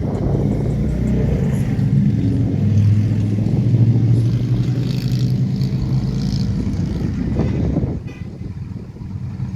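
Diesel locomotive engine running with a steady low hum, swelling about three to four seconds in and easing off about eight seconds in.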